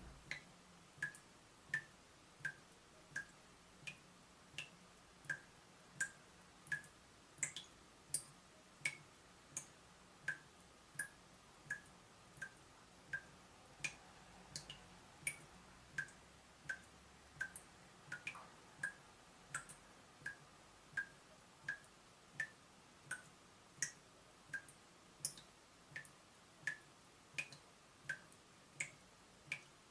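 Water dripping from a leaking tap in an even rhythm, about one and a half drops a second, each drop a short click with a brief pitched note.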